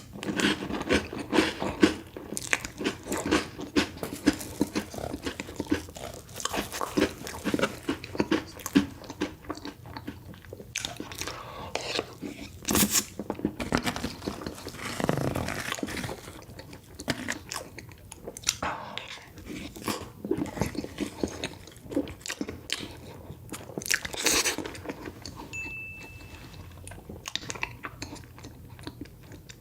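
Close-miked eating: repeated crunchy bites into chocolate desserts and chewing, with many sharp crunches, dense at first and sparser later.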